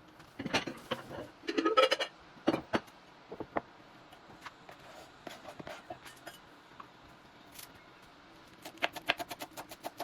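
Kitchen clatter of dishes and utensils being handled: a cluster of knocks and clinks in the first few seconds, then scattered ticks, and near the end a fast, even run of taps at about five a second.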